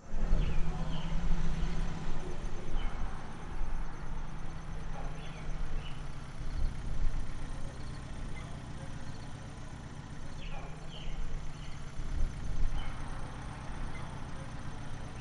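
Datsun roadster's engine running with a steady low rumble as the car pulls in.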